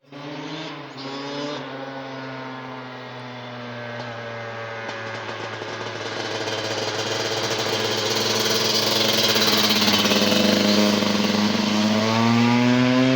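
Dirt bike engine running, with a couple of quick revs at the start, then growing louder as it approaches and revving up, rising in pitch, near the end.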